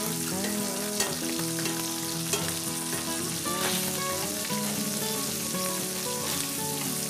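Walleye fillets and bacon sizzling steadily in hot fat in a cast-iron skillet. Metal tongs turn the fish with a few light taps and scrapes. Soft instrumental music plays underneath.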